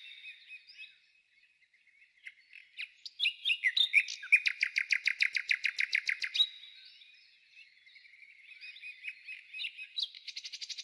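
Songbird singing: scattered high chirps, then a fast trill of repeated notes lasting about three seconds, more chirps, and a faster trill starting near the end.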